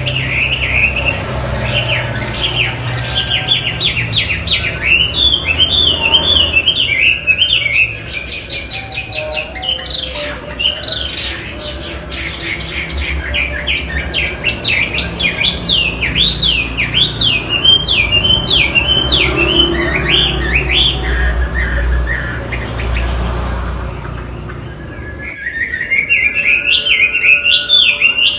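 Chinese hwamei singing a long, fast run of loud whistled notes that slide up and down in pitch. The song breaks off briefly near the end, then starts again.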